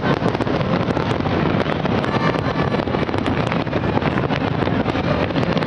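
New Year's fireworks display at full barrage: many overlapping explosions and crackles merging into a continuous rumble with no breaks.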